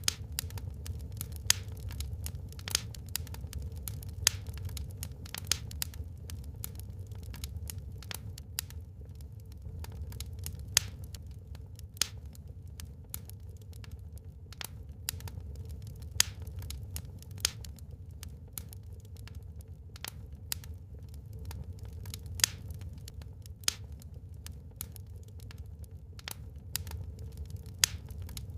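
Wood fire burning in a fireplace: irregular sharp crackles and pops, a few markedly louder snaps among many small ones, over a steady low rumble.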